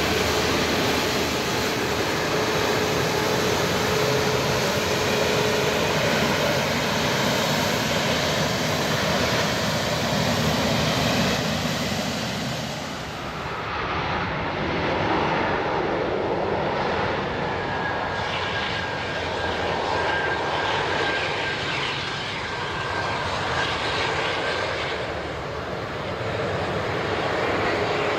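Jet airliner on landing approach, its engines running with a loud, steady roar and rush of air. About halfway through the high hiss drops away and the sound goes on lower, with a faint high whine.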